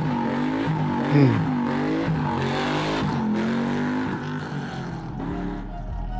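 Muscle car engine revving, its pitch rising and falling several times, with a sharp rev about a second in; it dies down near the end.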